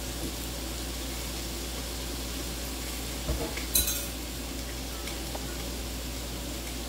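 Chicken on a closed electric contact grill and bacon in a cast iron skillet frying with a steady sizzle. Two sharp clinks of kitchenware come a little past the middle.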